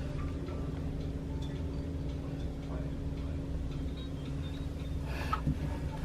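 Volvo Penta D6-330 six-cylinder marine diesel running at a steady idle, heard close up in the engine room with a light ticking clatter. A brief knock sounds about five and a half seconds in.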